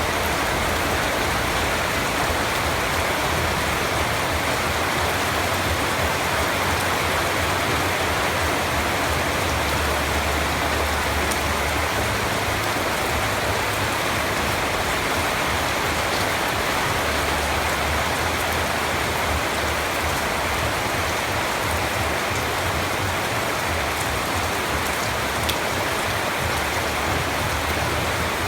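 Steady rain falling, an even hiss of drops on a surface with a low rumble underneath that swells and fades.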